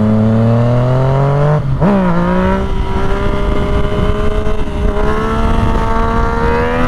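Yamaha motorcycle engine accelerating hard, its pitch climbing, falling sharply about 1.7 seconds in as it shifts up, then climbing again through the next gear with another dip near the end.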